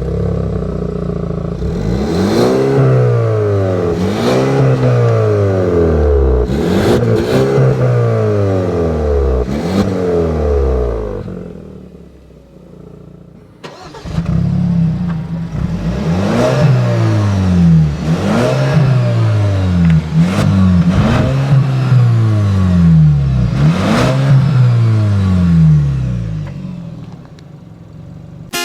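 A 2.0-litre turbocharged four-cylinder crossover engine revving hard in two long runs, with a brief lull between them around the middle. Its pitch climbs and drops back again and again, every second and a half to two seconds.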